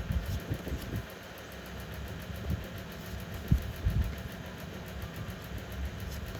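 Handling noise: irregular dull low thumps over a steady low rumble and hiss, the strongest about three and a half seconds in.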